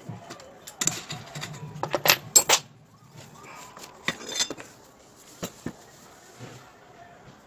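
Metal parts and hand tools being handled: a series of irregular clinks and knocks, loudest about two seconds in.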